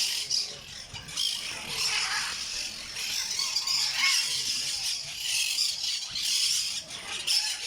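Green parrot making nearly continuous harsh, high-pitched squealing and chattering calls.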